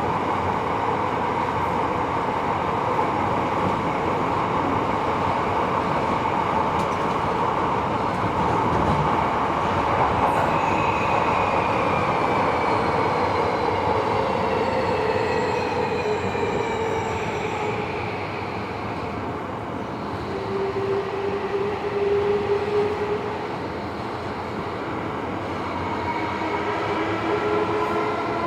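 Tobu 70000 series train running, heard from inside the car: steady running noise with the whine of the motors falling in pitch through the middle as the train slows. A steady tone follows around twenty seconds in, and the motor whine comes back, rising, near the end as the train picks up speed again.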